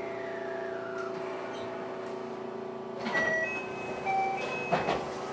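JR West 223 series electric train at the end of its run: the car's equipment hums steadily while a whine falls in pitch in the first second as the train comes to rest. About three seconds in, a run of loud clunks and short squeaks begins as the sliding doors open.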